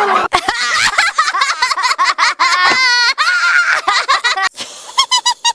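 High-pitched cartoon voices laughing in quick, choppy bursts.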